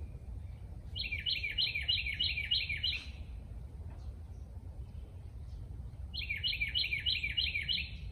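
A songbird singing two songs a few seconds apart. Each is a quick run of about eight repeated down-slurred notes lasting about two seconds, over a steady low rumble.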